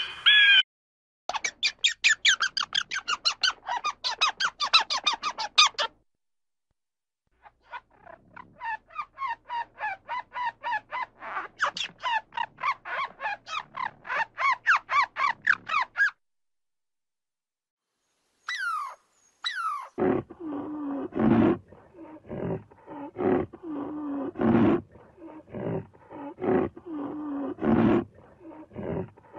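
A string of different animal calls: two bursts of fast, high chattering calls with a short gap between them, then two quick falling squeals, then a long series of rough, low calls repeated about once or twice a second.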